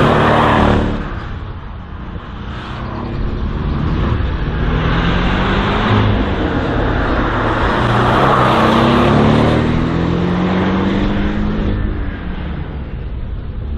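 Race car engine revving hard through a slalom course, its pitch climbing and dropping with each burst of throttle. It is loudest at the start, falls away about two seconds in, then rises again through the middle.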